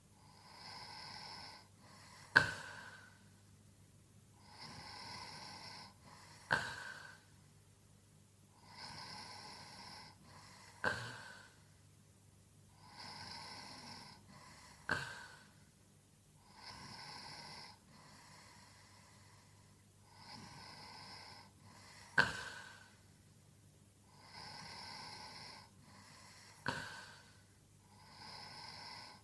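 A sleeping man snoring in a steady rhythm, one breath about every four seconds. Each breath is a drawn-out noisy sound of about a second and a half that ends in a sudden sharp snort, seven times over.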